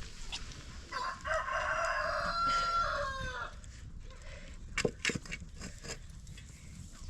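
A rooster crowing once: one drawn-out call of about two and a half seconds that drops in pitch at the end. A few sharp knocks follow a couple of seconds later.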